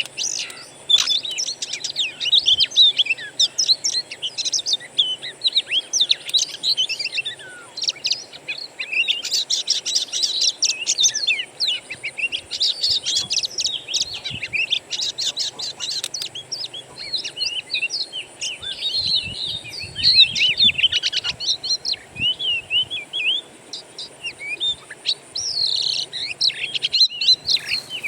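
Songbird singing a continuous stream of rapid, varied chirps and whistles, with a brief thinner stretch about three quarters of the way through.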